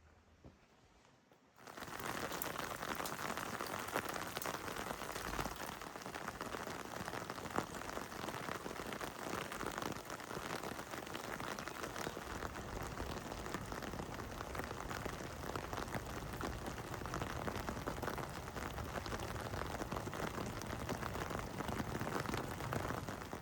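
Heavy rain falling: a steady, dense hiss full of small individual drop hits. It starts suddenly under two seconds in, after near silence.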